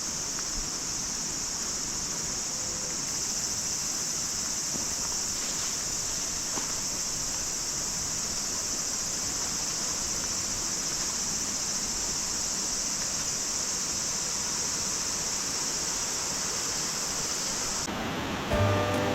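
Steady, high-pitched chorus of insects over an even rush of water. Both cut off near the end as music comes in.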